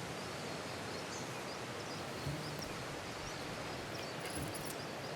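Outdoor natural ambience: a steady wash of background noise with faint, scattered high chirps from small animals. There is a soft low thump a little over two seconds in.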